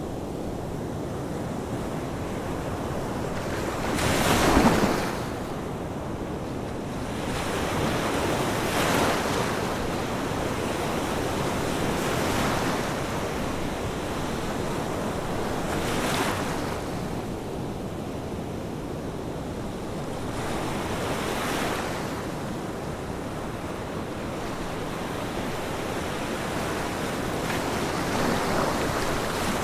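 Ocean surf: waves breaking and washing ashore every few seconds over a steady rush of water, the loudest break about four seconds in.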